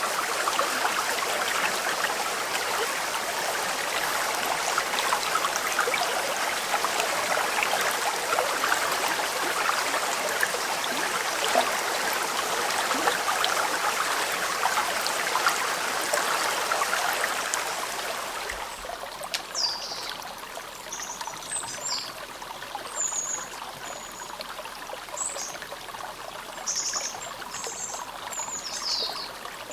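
Clear mountain river babbling over stones, a dense, even rush of water. About two-thirds of the way through it drops suddenly to a softer flow, and small birds chirp repeatedly with short, high, falling calls.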